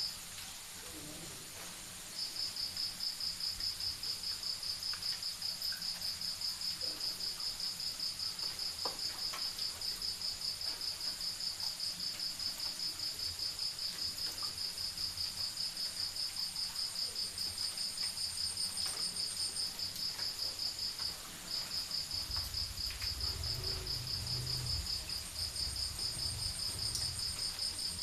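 Crickets trilling at night: a high, rapid, evenly pulsing chorus that drops out for about two seconds at the start and again briefly about three-quarters of the way through. A low rumble comes in during the last quarter.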